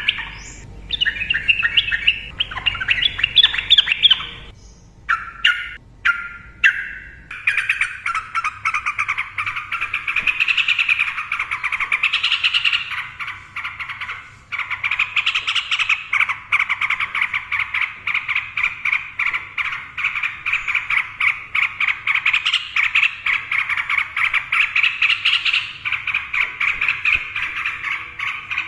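Sooty-headed bulbul (trucukan) singing: short separate phrases with gaps at first, then, about seven seconds in, a long unbroken run of rapid chattering notes, the fast 'ropel' song style.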